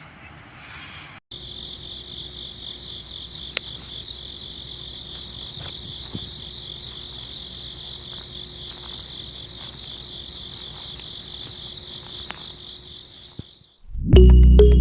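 Crickets trilling steadily in a continuous high buzz, starting about a second in and cutting off shortly before the end, with a few faint clicks over it. Loud music starts right at the end.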